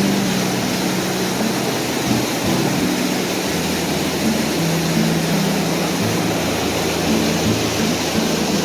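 Canal water rushing through sluice gates, a loud steady rush. Low steady tones that shift in pitch every second or so run underneath it.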